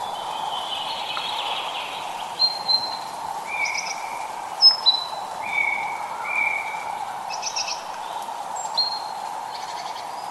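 Birds calling with short, clear whistled notes and chirps, one after another, over a steady hiss of light rain.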